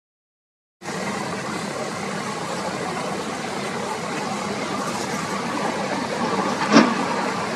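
A motor cruiser's engine running under steady wind noise, cutting in about a second in. There is a brief sharp sound near the end.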